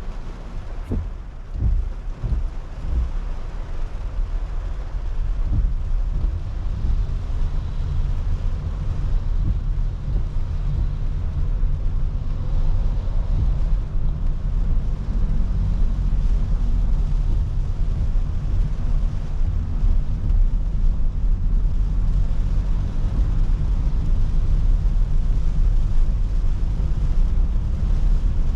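Car driving in the rain, heard from inside: a steady low rumble of tyres and engine, with a few short thumps in the first few seconds.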